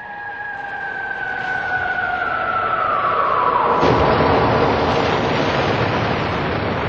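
Recorded war sound effect: the whistle of an incoming artillery shell falling steadily in pitch, then an explosion about four seconds in that rumbles on.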